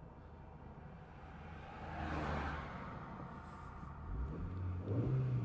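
VW Golf GTI 2.0-litre four-cylinder engine running at idle with a steady low hum. A brief whooshing swell comes about two seconds in.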